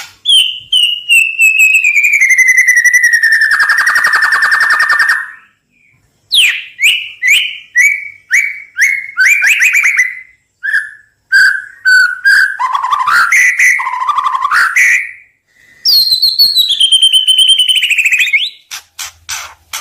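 White-rumped shama (murai batu) singing: a long falling trilled whistle, then a quick run of short rising notes and varied warbled phrases, then another falling trill and a few sharp clicks near the end.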